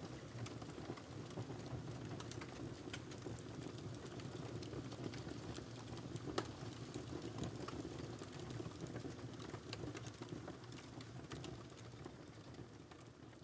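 Wood fire burning in a fireplace: a low steady rumble of flames with scattered sharp crackles and pops, the loudest about six seconds in. It begins to fade near the end.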